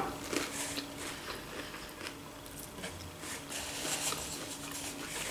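Faint, irregular chewing of a mouthful of homemade pizza, with the lips closed.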